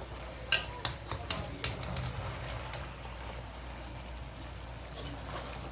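Pork ribs frying in their own fat in a pan. About five sharp knocks of a utensil against the pan in the first two seconds, then a steady faint sizzle.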